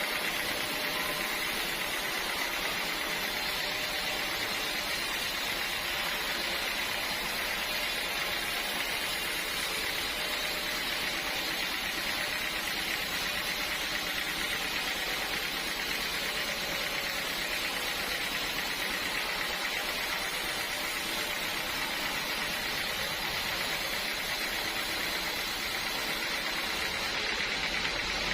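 Sawmill machinery running steadily: an even mechanical noise with a constant high whine, with no breaks or changes in load.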